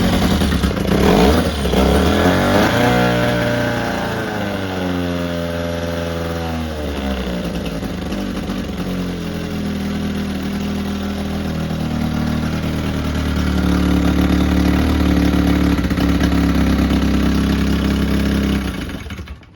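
Old 6 hp Evinrude two-stroke outboard motor running, its first sustained run: it revs high at first, its pitch sags over a few seconds, settles and picks up a little, then it cuts out suddenly near the end.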